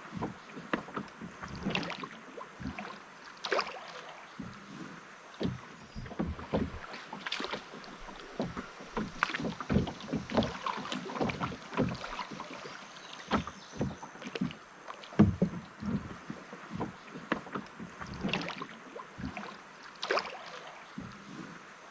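Canoe being paddled on a river: irregular small splashes, drips and light knocks of the paddle in the water, over a faint wash of moving water.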